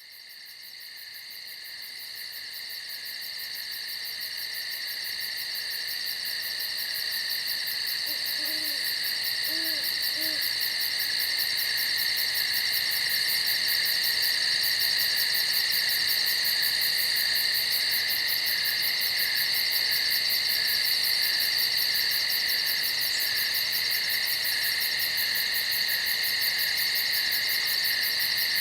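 A dense, steady night insect chorus of fast, shrill trilling fades in over the first dozen seconds. About nine seconds in, an owl gives three soft, low hoots beneath it.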